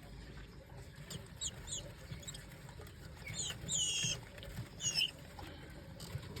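Small birds making short, high squeaky chirps in scattered bunches, with a busier run about three and a half to four seconds in.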